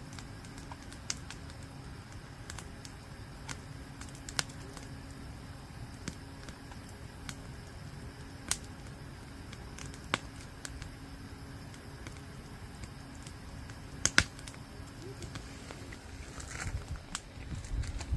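Wood campfire crackling, with sharp single pops at irregular gaps of a second or more and a louder double pop about fourteen seconds in, over a steady low hum.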